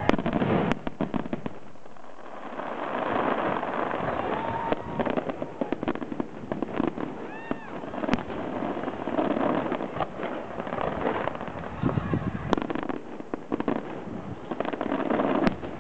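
Aerial fireworks display: shells bursting with dense crackling from glittering stars, and sharp bangs about a second in, about halfway, and near the end.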